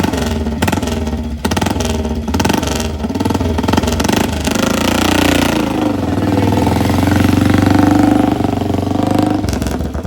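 Classic motorcycle engine revved in several rising-and-falling blips, then held at a steadier, higher pitch for a few seconds.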